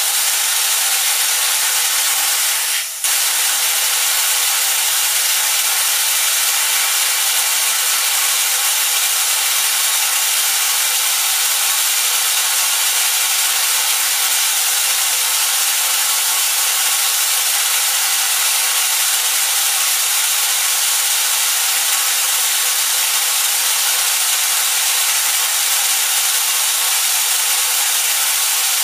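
Small electric motor of a Lionel 497 coaling station running steadily as it winds the mechanism all the way down, with a brief break about three seconds in.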